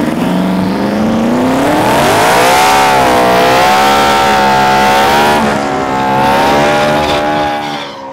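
A vehicle engine is revved up hard and held at high revs, its pitch wavering, over a loud hiss and screech of spinning tyres, as in a burnout. The revs fall away near the end.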